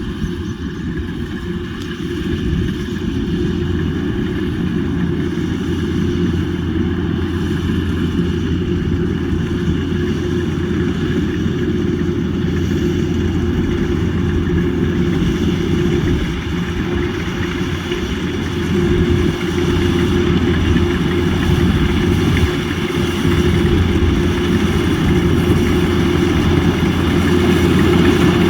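Rice combine harvester's engine running steadily with a constant mechanical hum, growing a little louder near the end.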